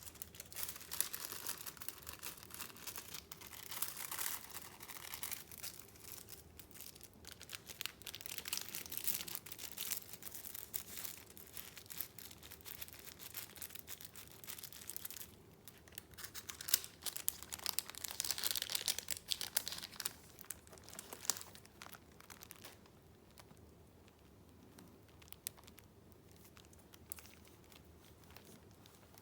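Paper rustling and crinkling as junk-journal pages and paper pieces are handled and turned, with many small crisp crackles; it grows quieter about two-thirds of the way through.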